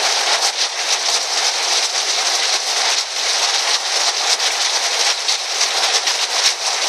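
Heavy rain falling on a tin roof: a dense, steady hiss of countless drop ticks with no let-up.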